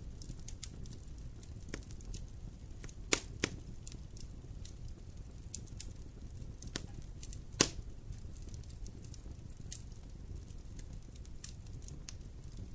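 Fire burning in a fireplace: a low steady rumble of flames with scattered crackles and snaps, two louder pops about three seconds in and a sharp one about halfway through.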